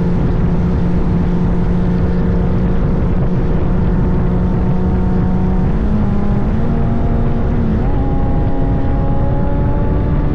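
Honda CBR sport bike's engine running while riding, heavy wind rush on the microphone over it. The engine note steps up in pitch twice, a little past the middle and again near the end, as the bike speeds up.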